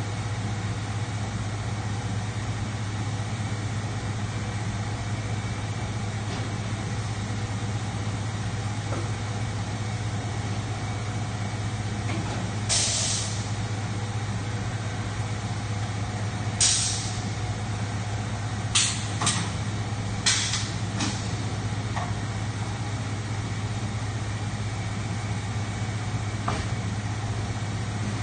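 Steady low hum of factory machinery on an exhaust-pipe production line, with several short bursts of compressed-air hiss. The first hiss comes about halfway through, a quick cluster of four follows a few seconds later, and a faint one comes near the end.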